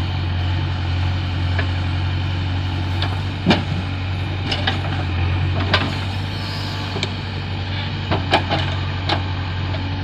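Heavy diesel engine idling steadily, with several sharp knocks and clanks over it, the loudest about three and a half seconds in.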